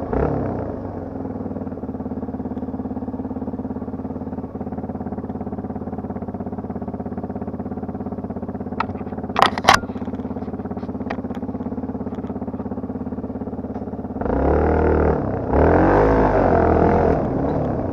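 Yamaha TT250R's single-cylinder four-stroke engine idling steadily, with a few sharp clicks about halfway through. About fourteen seconds in it revs up and gets louder, its pitch rising and falling.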